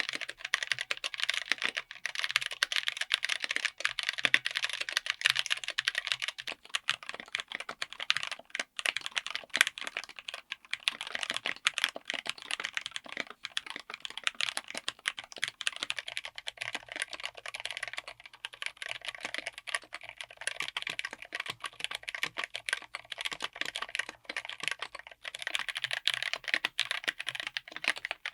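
Fast, continuous typing on a mechanical keyboard fitted with tactile switches: a dense stream of key clacks whose tone shifts a few times as the keys change.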